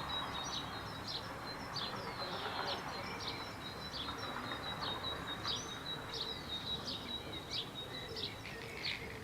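Small birds chirping repeatedly, short high chirps about twice a second, over a thin steady high-pitched tone and a constant background hiss.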